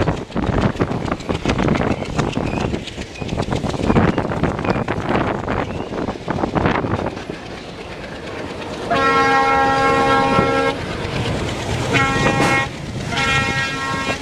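Train running at speed, heard from a coach window: rushing noise with a dense clatter of wheels and coach. About nine seconds in, a diesel locomotive's air horn sounds a long blast of about two seconds, then a short toot, then another blast near the end.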